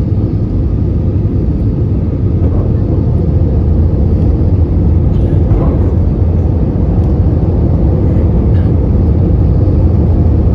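Steady low rumble of an Airbus A320-214's CFM56 jet engines and the rushing air, heard inside the passenger cabin.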